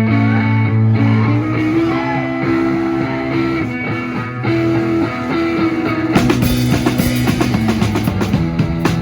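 Live rock band playing: held, sustained notes at first, then the drum kit comes in with rapid, steady hits about six seconds in and the music fills out.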